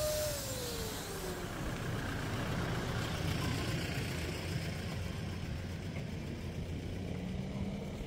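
A high-speed electric air pump, used for inflating boat tubes, winds down: its whine falls steadily in pitch over about the first second and a half and fades. A low, steady mechanical hum with rough noise goes on after it.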